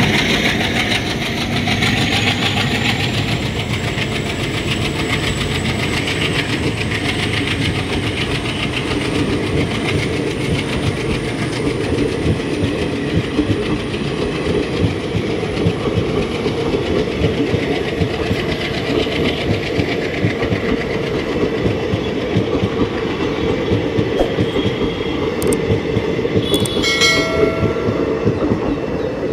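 Indian Railways passenger coaches rolling past at close range, their wheels clattering steadily over the rail joints. A short horn sounds near the end.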